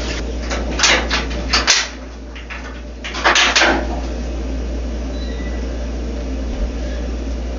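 A few sharp knocks and rattles of parts and hardware being handled in the first few seconds, over a steady low hum.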